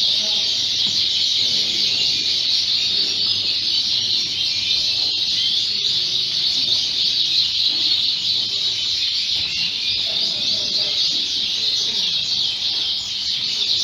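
Many Fife canaries singing and chirping at once: a dense, continuous high-pitched chatter of overlapping songs with no pauses.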